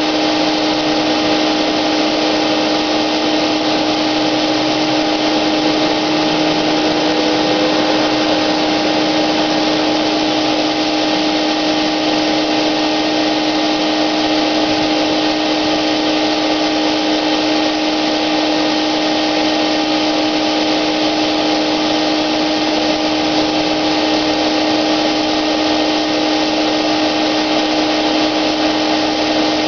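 Wagner electric paint sprayer running steadily, its motor giving a constant whine over a wide hiss.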